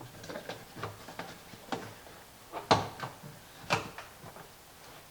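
Hands working on a plastic compost tumbler's lid ring: a string of light knocks and clicks, with two louder sharp knocks about a second apart near the middle.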